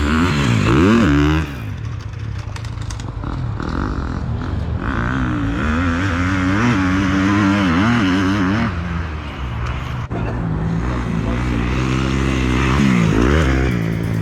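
Dirt bike engine revving hard and backing off several times, its pitch climbing and dropping as the throttle is opened and rolled off.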